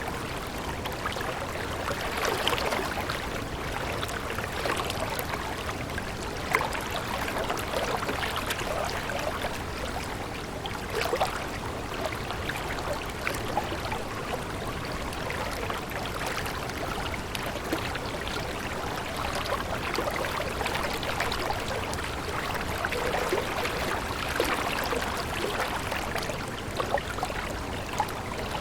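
Flowing stream water babbling steadily.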